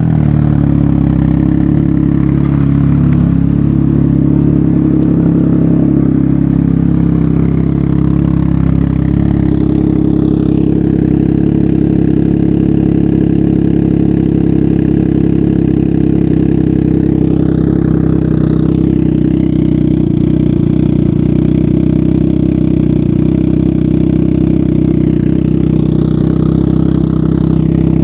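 Can-Am Ryker Rally's Rotax 900 ACE three-cylinder engine idling steadily and loudly through an RLS Twin Kaos twin exhaust with the baffles in.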